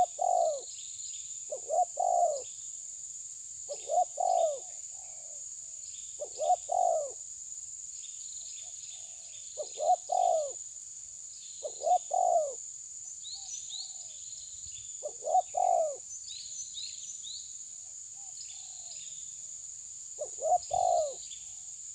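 Birds calling: a low, short double call repeated every two seconds or so with a few longer pauses, over faint higher chirping.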